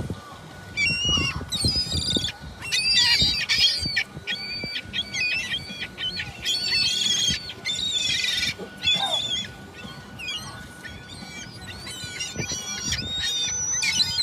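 Gulls calling: several high-pitched cries overlapping in bouts, with a lull in the middle and calling picking up again near the end. A thin steady tone runs underneath.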